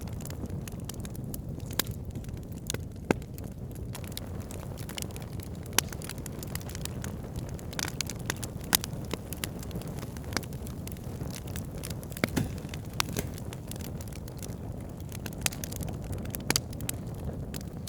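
Wood campfire burning: a steady low rumble with irregular sharp crackles and pops from the burning wood, a few louder snaps scattered throughout.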